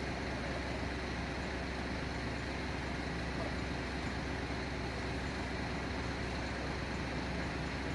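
Steady running noise of motor vehicles, an even engine hum with no changes.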